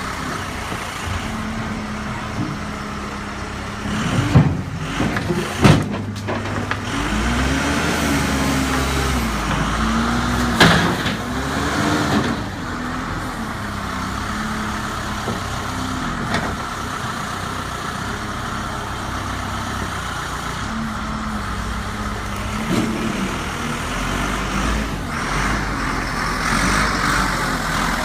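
Case 580L backhoe loader's diesel engine running, its pitch rising and falling several times in the middle as it revs up and down. A few sharp metallic clanks come through as well, loudest about four to six seconds in and again near eleven seconds.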